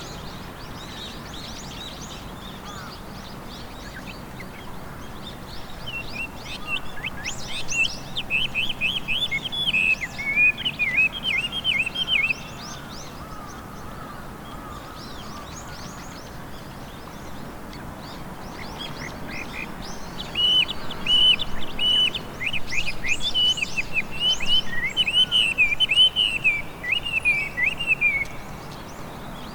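Chinese hwamei (Garrulax canorus) singing its loud, varied whistled song in two long phrases, quick rising and falling notes, with a pause of several seconds between them.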